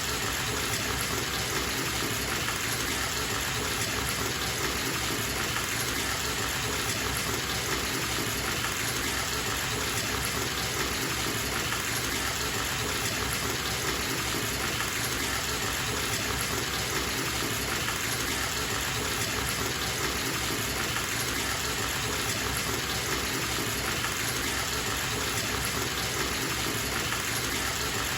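Bathtub tap running full into the tub, a steady even rush of water.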